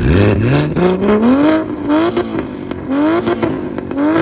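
A car engine being revved hard in place: one long climb in pitch, then a quick string of throttle blips about every half second, with sharp crackling pops from the exhaust.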